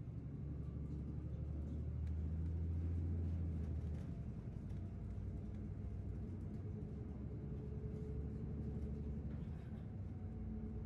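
City bus engine and road noise heard from inside the bus: a steady low rumble that builds to its loudest about two to four seconds in, then eases back.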